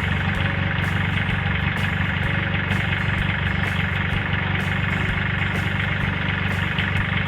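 A small farm-tractor diesel engine, of the kind on an e-taek tractor-cart, running steadily at an even pace.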